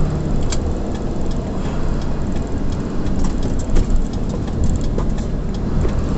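Steady engine drone and road noise heard from inside a moving vehicle's cab, with scattered light clicks and rattles.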